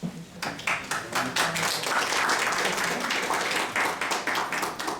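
Audience applauding: many hands clapping at once, building up about half a second in and dying away near the end, to welcome the lecturer just introduced.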